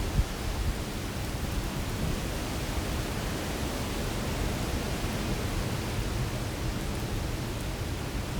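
Heavy rain pouring down in strong wind, a steady rushing noise with a deep rumble underneath, and one brief thump just after the start.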